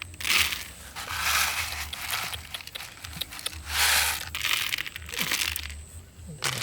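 Several bursts of rustling and crunching, as of dry material being crushed or handled, each lasting a fraction of a second to about a second, over a low steady hum.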